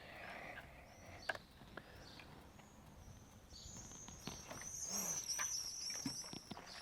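A small songbird singing a rapid, twittering run of high chirps, starting about halfway through, over a quiet open-air background with a few faint clicks and rustles.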